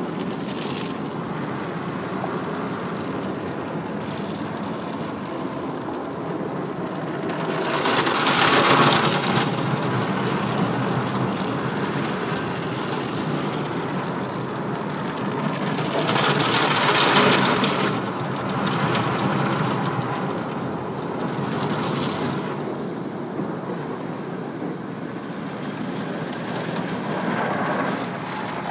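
Automatic car wash heard from inside the car: a steady rush of water drumming on the body and windows, with louder passes about eight seconds in, around seventeen seconds and again near the end.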